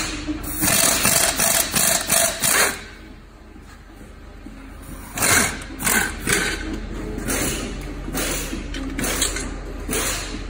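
Irregular metallic clanks and tool noises from work on the vehicle's suspension, coming in bursts with a quieter lull partway through.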